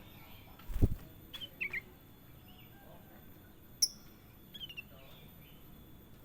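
A kutilang emas (bulbul) giving short, sparse chirps: a couple of notes about a second and a half in, a sharp high chirp near the middle and another brief phrase soon after. A dull low thump just under a second in is the loudest sound.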